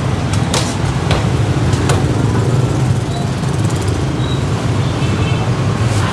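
Steady rumble of street traffic, mostly motorbikes, with a few sharp knocks in the first two seconds.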